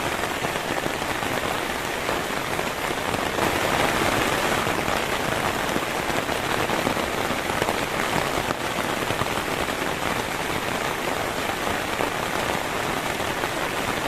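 Heavy rain falling steadily, a little heavier about four seconds in.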